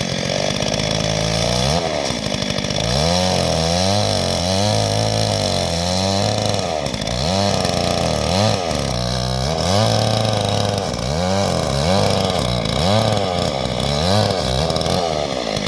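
Two-stroke chainsaw cutting a notch into a log, its engine pitch rising and falling again and again, about once a second, as it cuts.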